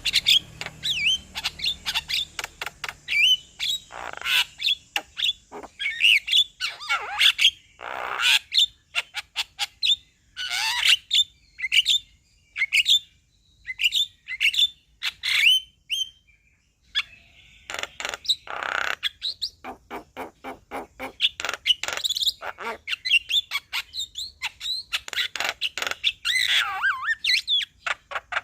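Male Javan myna calling: a fast, varied run of short whistles and chirps mixed with harsh rasping squawks, with a couple of brief pauses midway.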